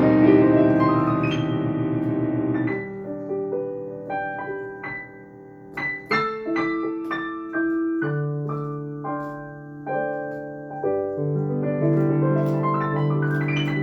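Solo piano playing without vocals: a held chord that breaks off about three seconds in, then sparse single notes, with fuller chords coming back in near the end.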